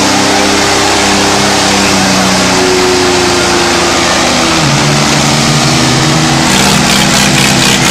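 Diesel tractor engines running hard at high revs under heavy pulling load, loud and sustained, with the engine pitch shifting a couple of times. A fast, even pulsing joins in near the end.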